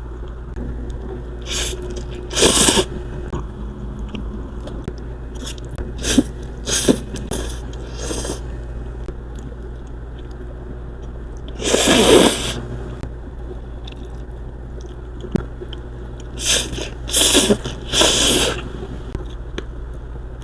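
A person eating pancit canton noodles: short noisy slurps and bites every few seconds, the longest and loudest about twelve seconds in, over a steady low hum.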